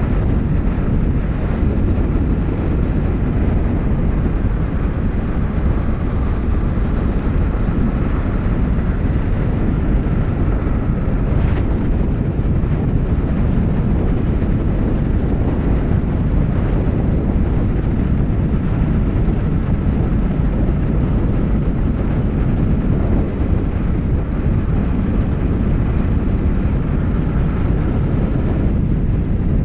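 Honda Rebel 300 motorcycle's single-cylinder engine running at a steady cruise, under a steady rush of wind and road noise on the microphone.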